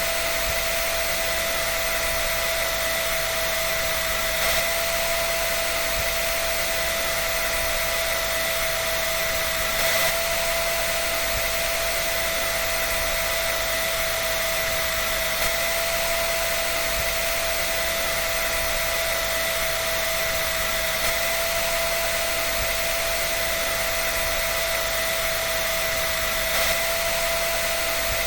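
Electric hair dryer running steadily: a rushing blow of air over a constant high motor whine, with a faint bump about every five and a half seconds.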